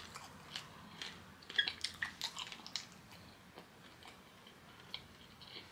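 A person chewing kenkey, soft fermented corn dough, with faint wet mouth clicks and smacks, thickest about one and a half to three seconds in.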